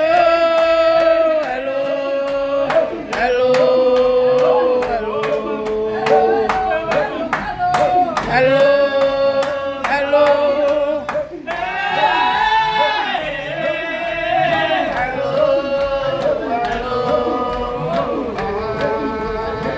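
Voices singing a slow song with long held notes, over a beat of sharp strikes.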